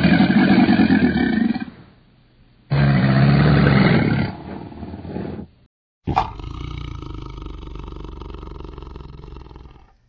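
A big cat roaring twice, each roar about two seconds long. After a brief silence about six seconds in, a quieter, steadier sound starts.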